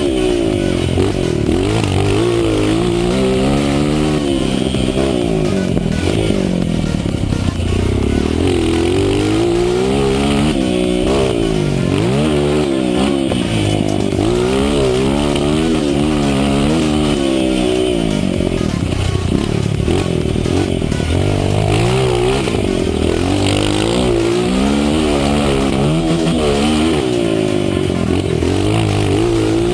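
Honda CRF 230 dirt bike's single-cylinder four-stroke engine being ridden hard, revving up and dropping back again and again as it accelerates, shifts and backs off, the pitch rising and falling every second or two.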